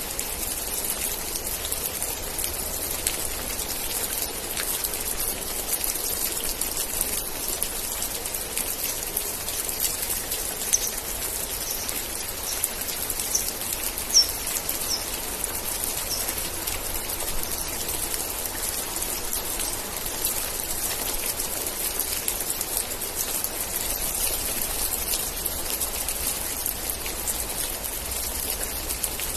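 Steady rain, dense patter of drops falling on surfaces. Near the middle come a few short, high chirps.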